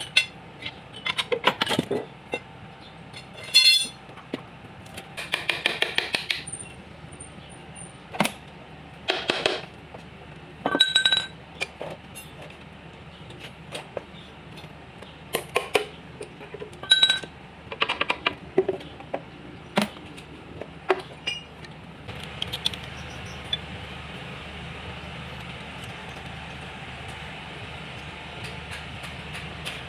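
Metal tools and engine parts clinking and knocking, some strikes ringing briefly, with a few quick rattling runs among them. A steady hiss comes in about two-thirds of the way through.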